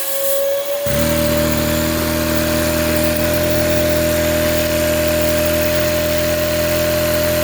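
Vacuum cleaner driving a Lego engine at full speed, giving a steady high whine. A low, even mechanical hum starts abruptly about a second in and stops abruptly near the end.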